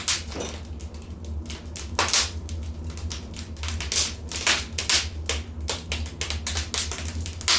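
Wood fire crackling: a rapid, irregular run of sharp pops and snaps from burning logs, some louder than others, over a steady low rumble.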